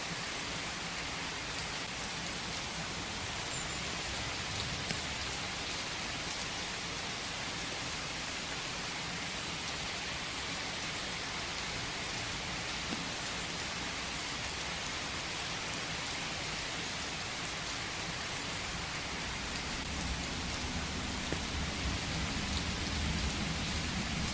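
Steady rain falling on leaves and ground, an even hiss with scattered faint drop ticks, a low rumble swelling slightly near the end.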